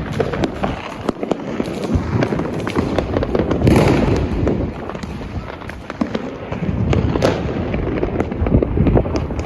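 Fireworks going off all over the city: a constant mix of sharp cracks and bangs over a dense rumble of distant explosions, with the loudest burst about four seconds in.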